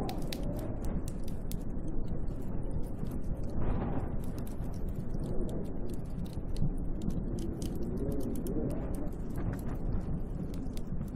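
Snowstorm wind howling in gusts, with a wavering, moaning pitch and a stronger gust swelling about a third of the way in, over a steady low rush. Scattered light ticks sound throughout.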